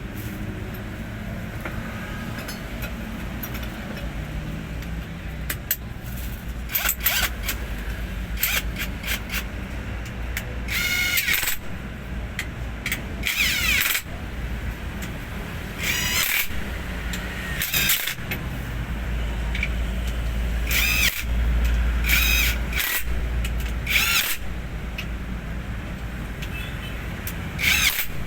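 A vehicle engine running with a low, steady hum that grows heavier for a few seconds past the middle. Short, irregular hissing or clattering bursts come and go over it, more often in the second half.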